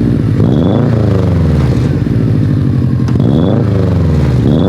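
Engine revving through an exhaust fitted with a single turbo whistler insert: two quick blips that rise and fall, with a third starting near the end, each bringing a short, thin high whistle at its peak.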